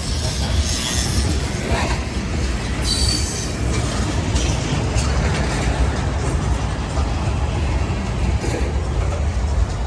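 CSX freight cars rolling past close by: a steady rumble of wheels on rail, with a brief high wheel squeal about three seconds in.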